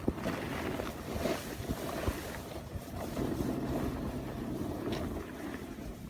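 Wind in a snowstorm rushing over the microphone as a steady noise, with scattered small knocks and scrapes.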